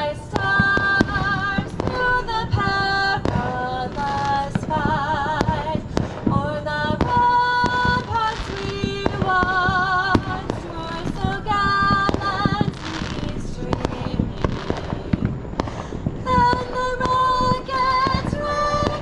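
Fireworks bursting and crackling again and again under a song with a sung melody.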